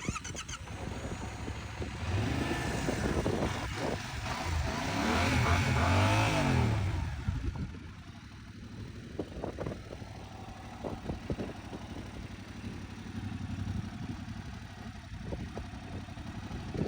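Yamaha MT-07's parallel-twin engine revved up and back down a few times, loudest about six seconds in, then running quietly at idle with scattered light ticks.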